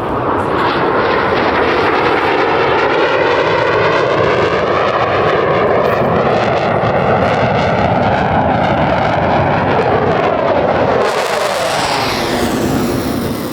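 Blue Angels F/A-18 Super Hornet jet engines, a loud continuous roar as the jets fly past. The pitch of the roar bends slowly, then drops steeply about eleven seconds in as a jet goes by.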